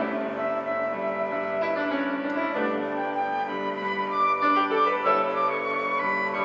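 Small church orchestra playing an instrumental passage: a flute melody over piano accompaniment, with sustained string and woodwind notes.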